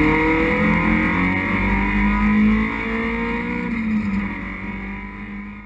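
Citroën Saxo race car's engine heard from inside its stripped cabin, revs climbing steadily as it accelerates along a straight. About four seconds in the note drops, and the sound then fades away near the end.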